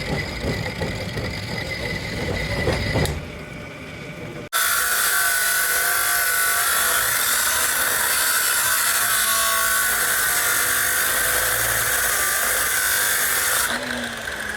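A power tool running steadily with a high, slightly wavering whine, starting abruptly about four and a half seconds in. Before it comes a low rumble with a few knocks.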